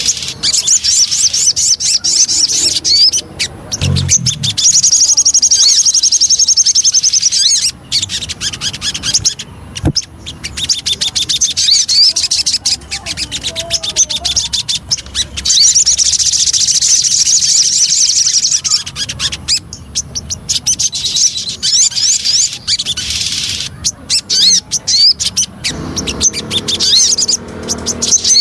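Sogon songbird chattering in fast, high trills, in phrases of a few seconds broken by short pauses.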